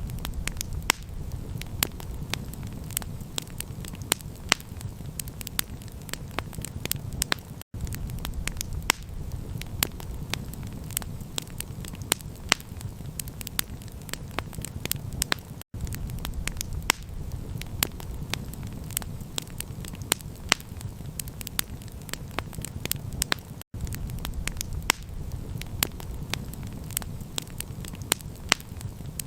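Campfire crackling: a steady run of sharp pops and snaps over a low, even rumble. The sound cuts out for an instant about every eight seconds.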